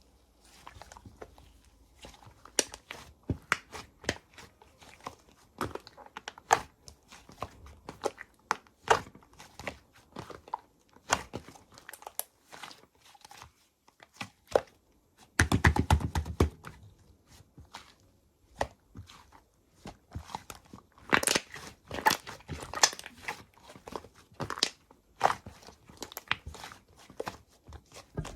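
Slime squished and pressed by hand, giving irregular sharp clicks and pops from trapped air, with two denser runs of crackling partway through and again later on.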